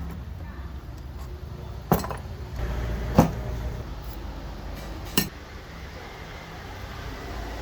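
Three sharp metallic clinks, a second or two apart, as parts of an old electric drill are handled and set down during disassembly, over a low steady background hum.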